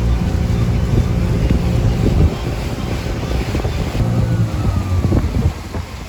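Gladiator 9.9 outboard motor running steadily, a low engine hum, with wind buffeting the microphone.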